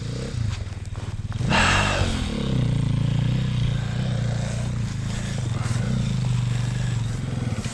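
Off-road motorcycle engine running, with a burst of revs about one and a half seconds in before settling into a steady note.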